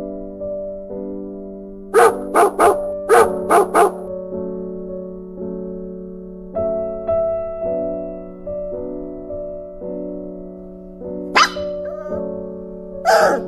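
A dog barking six times in quick succession over gentle piano music, about two seconds in. Another short animal call comes about eleven seconds in and again near the end.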